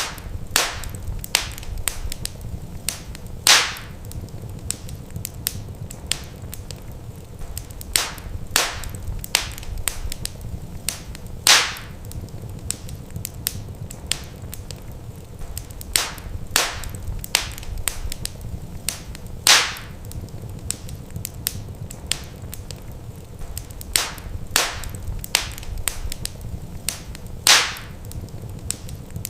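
Wood fire crackling in a fireplace: sharp irregular pops and snaps over a steady low rumble. The same pattern of pops repeats about every eight seconds.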